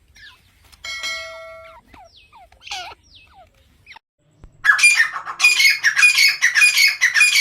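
Grey francolin calling: a held note about a second in and a few short falling notes, then from about 4.7 s a loud, fast run of repeated calls.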